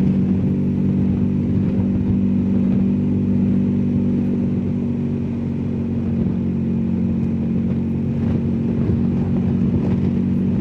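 BMW R1250GSA's boxer-twin engine running steadily at cruising speed while the motorcycle is ridden two-up on the road.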